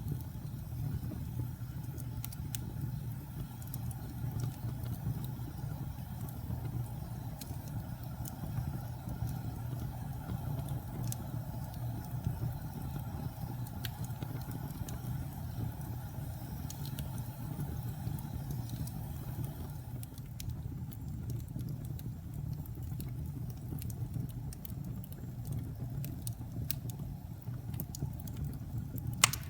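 Fireplace fire burning with a steady low rumble and scattered sharp crackles, and one loud pop near the end.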